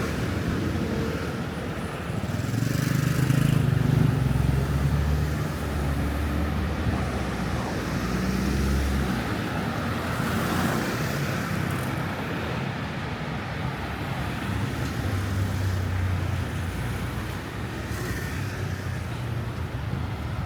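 City street traffic: a motor vehicle's engine drones close by for several seconds, loudest a few seconds in, and a fainter one follows later, over a steady hum of road traffic.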